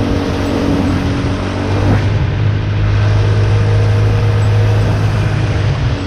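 Boat engine running under way with a steady low hum over the rush of wind and water. It eases slightly near the end.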